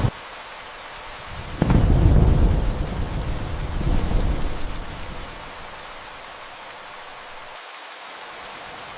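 Steady rain with a clap of thunder about a second and a half in, rumbling on with a second swell before dying away after a few seconds; then only the rain.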